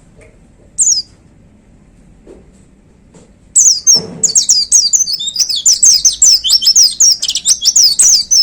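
White-eye (pleci) singing: one short high call about a second in, then from about three and a half seconds a fast, loud run of rapid high whistled notes, each sliding downward, that carries to the end.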